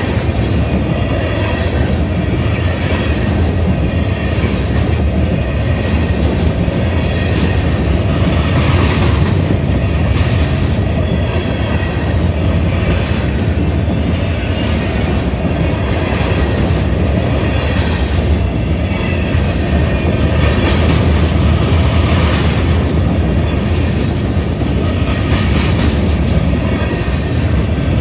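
Long freight train of grain cars rolling steadily past: a continuous rumble of wheels on rail with a clickety-clack of the wheels crossing rail joints every second or two.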